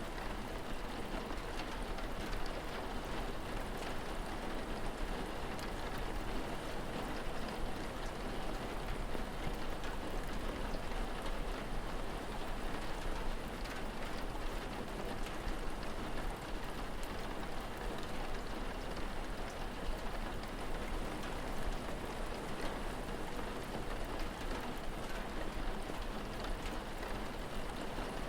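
Steady rain falling, with faint scattered drop patters over an even hiss and a low rumble underneath.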